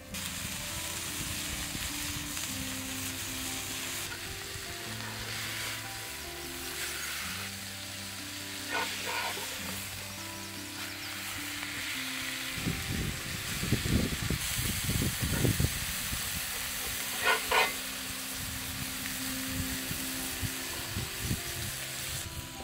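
Turkey burger patties sizzling in a cast-iron skillet over a campfire, a steady hiss with a couple of sharp pops, over background music.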